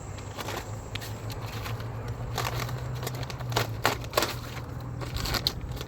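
Scattered clicks and light crackling rustles, a few sharp ticks bunched around the middle and near the end, over a steady low hum.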